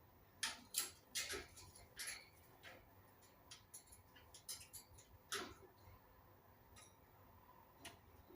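Indian ringneck parakeet making a quick run of short, sharp clicking chirps, about a dozen in the first five seconds, then two more near the end.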